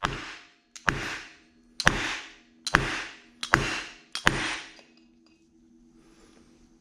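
A Bridgeport mill-head bearing hub being rapped repeatedly to shake the bottom bearing out of its bore: about six sharp metal knocks a little under a second apart, each with a short rattling tail, stopping just before five seconds in.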